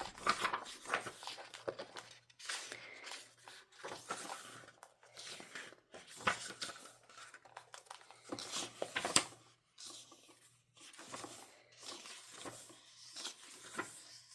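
Packaging being torn and crinkled around a diary-planner, a run of irregular rustles and crackles.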